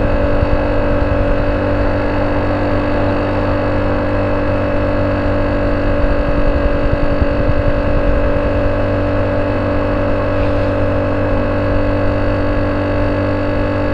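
Honda C70's single-cylinder four-stroke engine idling steadily through a banana-style (pisang) aftermarket exhaust, with an even, unchanging note.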